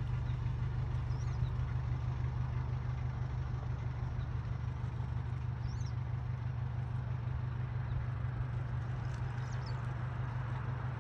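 A motor vehicle's engine running steadily, a low even hum with a fine regular pulse, much like a car idling. A few faint, short high chirps sound over it.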